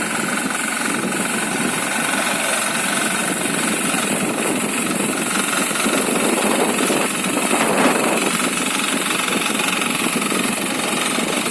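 Engine of a self-propelled crop reaper running steadily, briefly a little louder about two-thirds of the way through.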